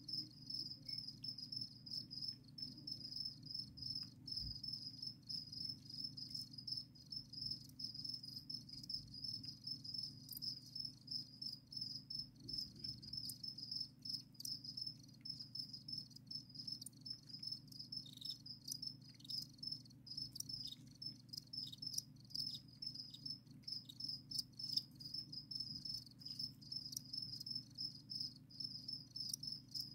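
Captive crickets chirping: a continuous, rapidly pulsing high trill, with a low steady hum beneath it.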